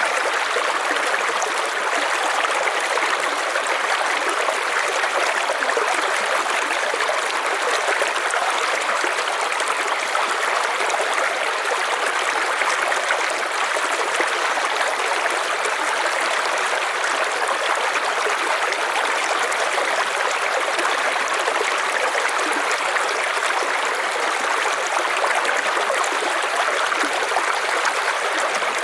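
River water rushing steadily over rocks: an even, unbroken rushing, strongest in the middle and upper range.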